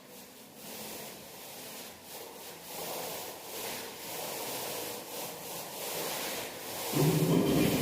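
Paint being worked onto a wall with a roller or brush: repeated rubbing strokes that swell and fade about once a second, with a louder, lower rasping stroke near the end.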